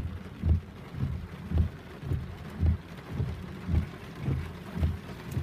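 Heavy rain falling, with a steady, regular low thumping about twice a second running through it.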